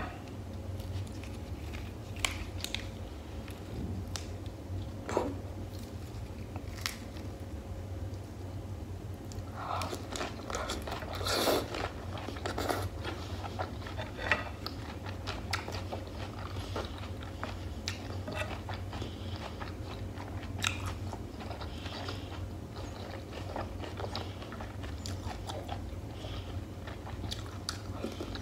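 Close-miked eating: crisp crunching and wet chewing of a lettuce-leaf wrap of beef and tomato stew, with scattered mouth clicks. The crunches are loudest in a cluster about ten to thirteen seconds in, over a steady low hum.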